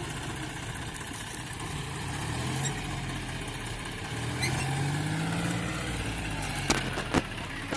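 John Deere tractor's diesel engine running, its revs rising about four to five seconds in, with two sharp knocks near the end.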